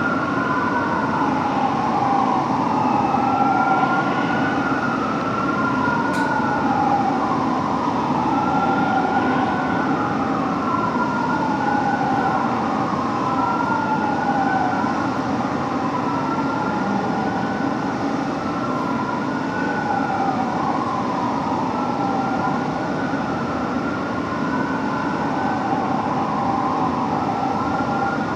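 Fire engine's Whelen siren on wail, its pitch rising and falling in slow sweeps about every two and a half seconds, over a steady low rumble.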